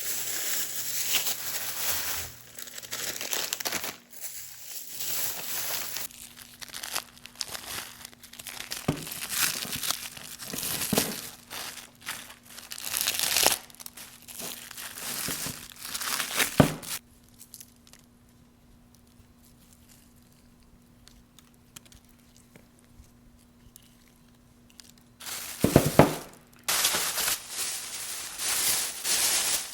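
Crinkling and tearing, like packaging being handled, in irregular bursts. There is a quiet stretch in the middle and a sharp burst after it.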